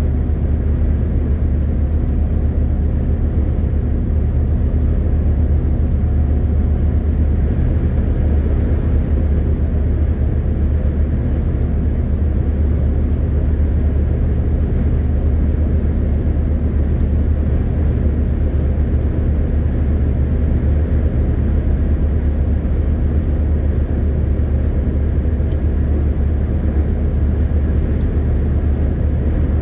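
MAN TGX 18.520 truck's six-cylinder diesel engine running at a steady speed with road noise, a loud, even drone that holds one pitch throughout.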